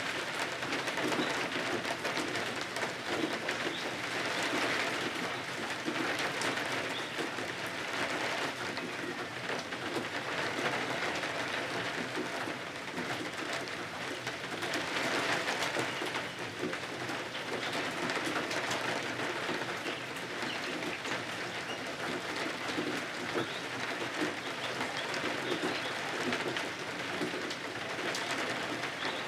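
Steady rain falling against windows, a continuous hiss that gently rises and falls in loudness.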